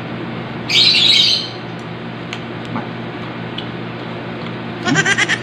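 A short, loud bird squawk about a second in over a steady low hum. A brief burst of laughter starts near the end.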